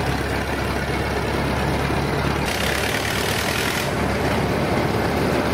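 Old tractor engine running steadily. A louder, noisy rush comes in from about two and a half to four seconds in.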